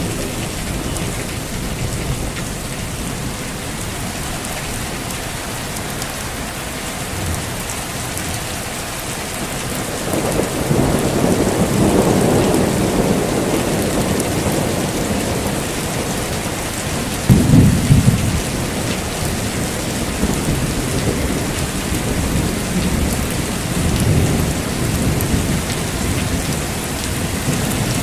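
Heavy rain falling steadily, with thunder. A long rumble builds about ten seconds in, a sharper, louder clap comes about seventeen seconds in, and softer rolls of thunder follow.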